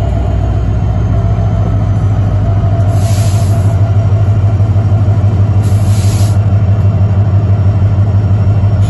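Train passing close by, a steady heavy low rumble that pulses rapidly and swells slightly after a couple of seconds. Two short bursts of hiss come about three and about five and a half seconds in.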